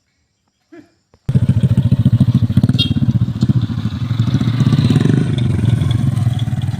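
Engine running close by with a rapid, even firing beat, starting abruptly about a second in after near silence.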